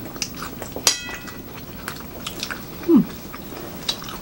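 Chewing and biting of sandwiches, with small wet mouth clicks and smacks throughout. About a second in, cutlery strikes a plate with a short ringing clink, and near three seconds there is a brief falling "mm".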